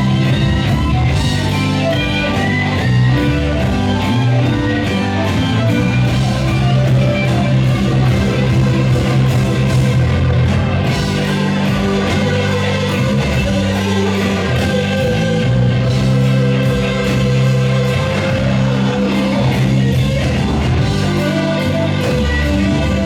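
Blues-rock band playing live, with electric guitar to the fore over bass and drums.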